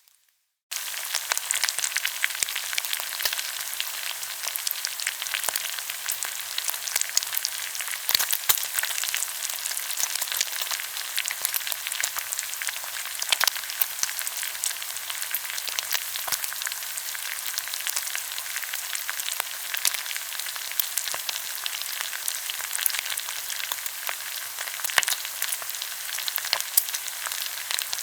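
Pork belly sizzling on a hot grill, a steady hiss thick with small spitting pops and crackles, starting suddenly just under a second in.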